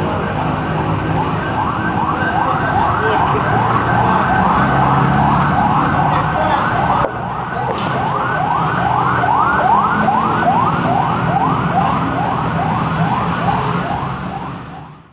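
Siren-type horn on a bus, sounding a fast yelp of rising sweeps about three a second over the bus's running engine. There is an abrupt break about seven seconds in, and it fades out at the end.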